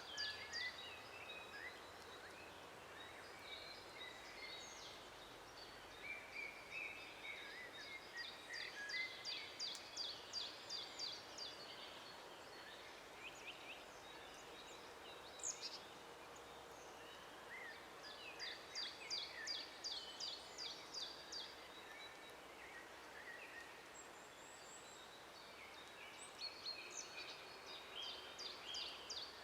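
Songbirds singing in a forest: one bird repeats a fast, high-pitched trill phrase lasting a couple of seconds, about every eight to ten seconds, while other birds chirp more softly in between, over a faint steady background hiss.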